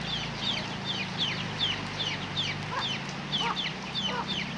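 Chickens calling: repeated short, high falling peeps, about two or three a second, joined about halfway through by lower clucks, over a steady low hum.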